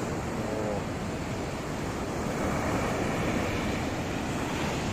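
Black Sea surf breaking and washing up the beach in a steady rush, with wind on the microphone adding a low rumble.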